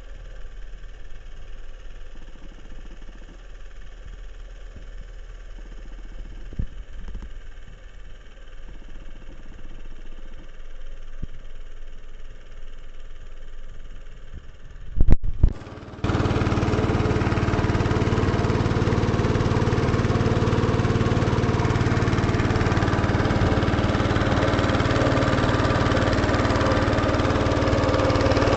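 An engine running steadily: a quiet low rumble for about the first half, then, after a couple of sharp knocks, a much louder, even engine note for the rest.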